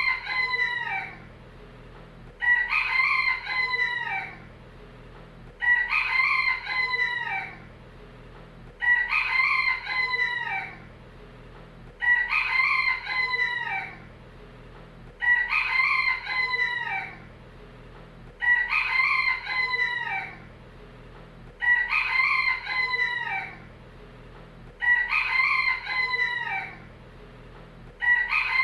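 Rooster crowing, the same cock-a-doodle-doo repeated about every three seconds as a loop, nine times in a row.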